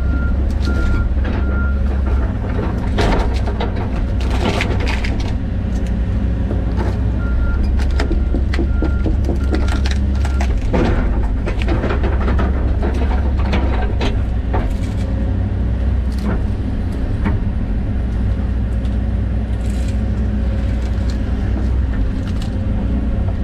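John Deere 130G excavator's diesel engine running steadily under load, with scattered cracks and crunches of trees, roots and dirt as it grubs out brush. A backup alarm beeps in two spells, in the first couple of seconds and again about a third of the way in.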